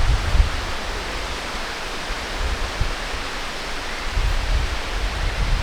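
Steady rushing of falling water, with irregular low rumbles from wind or handling on the microphone.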